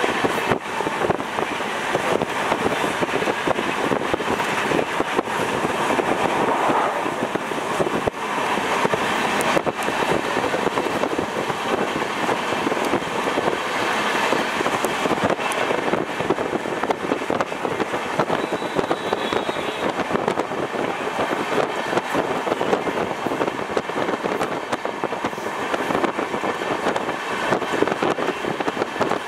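Moving passenger train heard from a carriage window at speed: a steady rush and rumble of wheels on the rails, with frequent irregular clicks and knocks.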